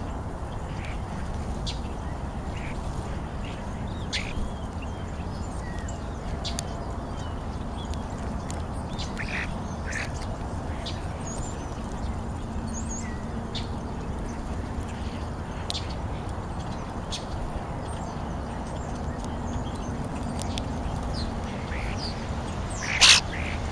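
Wild birds at a feeder giving short, scattered calls over a steady low wind rumble, with a louder burst of calls near the end.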